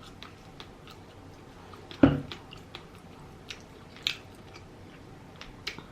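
Close-miked chewing of rotisserie chicken: wet mouth clicks and smacks scattered throughout, with one louder, fuller sound about two seconds in.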